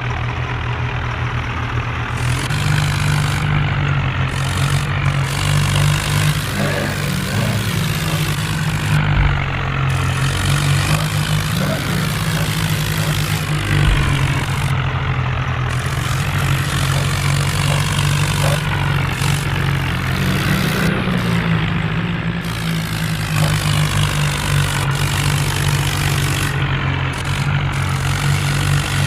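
Tractor engine running steadily under way, a constant low hum with engine and mechanical noise over it.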